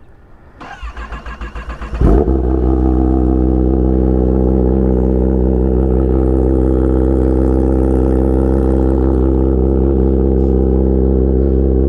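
Cold start of a Kawasaki ZX10R inline-four with an SC Project S1 exhaust: the starter cranks for about a second and a half, the engine catches about two seconds in, and it settles into a loud, steady idle.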